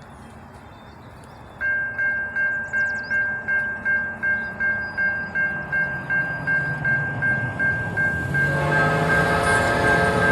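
Railroad crossing bell starts up about one and a half seconds in, ringing steadily at about two to three dings a second. Near the end a locomotive's multi-chime air horn sounds a long blast over the bell.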